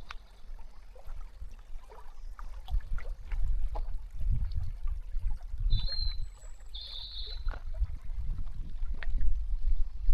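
Outdoor walking ambience: a steady low wind rumble on the microphone with scattered light clicks and steps, and two short high bird chirps about six and seven seconds in.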